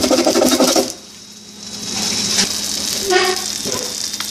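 Eggs frying in a pan, a steady sizzling hiss that comes in after a short lull about two seconds in.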